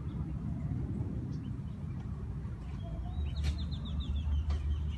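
A small bird singing a quick run of about eight falling chirps, a little past halfway. Under it is a low rumble that becomes a steady low hum from about three seconds in.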